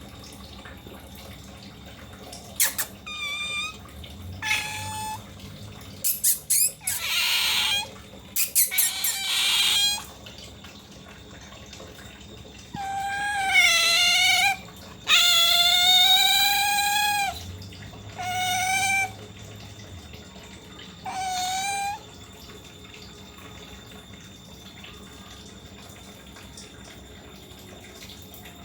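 Pet otter squealing: a string of high, drawn-out whining calls, some rising in pitch and a few harsher and screechier, stopping about two-thirds of the way through.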